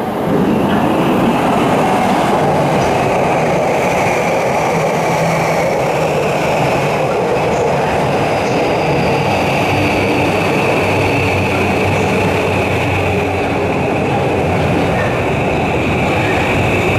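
Electric commuter train running at a station: a loud, steady rumble of wheels on rail with a high whine that slowly falls in pitch.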